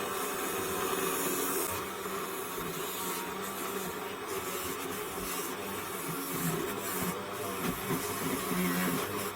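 Small homemade motor-driven machine running steadily, a constant hum under a noisy rubbing sound, as used for shaping old sandal foam into fishing floats.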